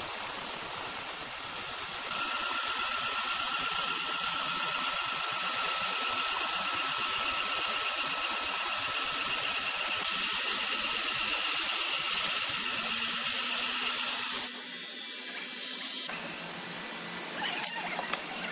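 Machinery running with a steady high whine over a hiss; the sound changes abruptly about fourteen seconds in, and a few sharp clicks come near the end.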